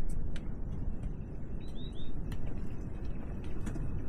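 A small bird gives three quick chirps about two seconds in, over a steady low rumble and the scattered scuffs of footsteps.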